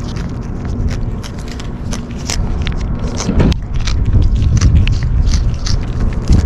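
Kittens chewing food, a rapid irregular run of crisp crunching clicks, over heavy wind rumble on the microphone.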